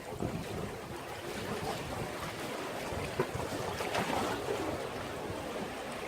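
Sea waves washing against a breakwater, a steady rush of surf with small splashes, one a little louder about four seconds in; wind on the microphone.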